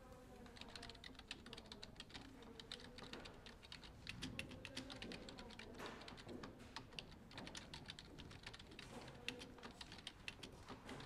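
Rapid, irregular typing on a computer keyboard, a quick run of key clicks, faint under a low background murmur.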